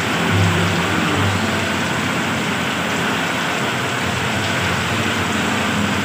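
Heavy rain pouring down, with cars and a truck driving through water on the road, their tyres splashing and engines humming as they pass, a little after the start and again near the end.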